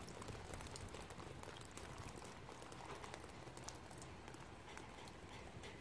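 Light rain falling, faint, with a patter of scattered drops ticking.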